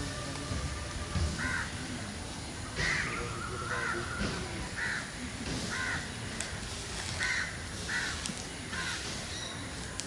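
Birds calling over and over in short calls, roughly one a second.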